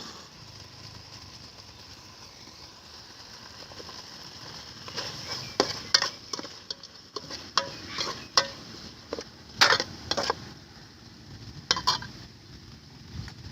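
Chicken sizzling as it is stir-fried in a pan. About five seconds in, a cooking utensil begins scraping and clinking against the pan in a run of sharp knocks that goes on until near the end.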